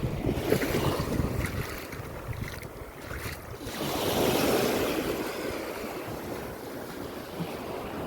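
Sea waves washing onto a beach, with wind buffeting the microphone. A wave surges in louder about four seconds in, then eases off.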